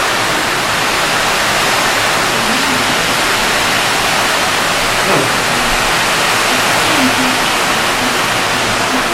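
Heavy rain falling: a loud, steady hiss of a downpour with no let-up.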